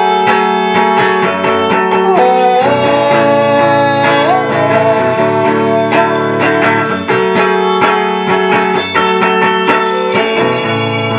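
Live band playing an instrumental passage with guitars to the fore over a steady beat, a held lead note sliding up in pitch about four seconds in.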